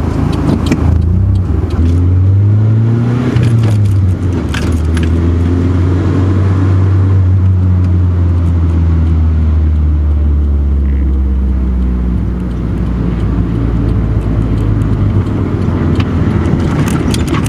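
Nissan 240SX's four-cylinder engine on a drive: revs climb briefly about two seconds in and drop at a gear change just before four seconds in. After that it runs steadily at cruising revs that ease down slowly.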